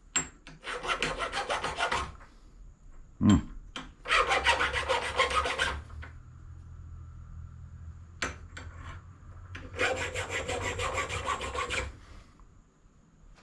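A brass scrap piece being scratched with a hard tool in three quick bursts of rapid back-and-forth scraping strokes, about two seconds each, with a knock between the first two. The scratching bares fresh metal to show its colour, telling yellow brass from red brass.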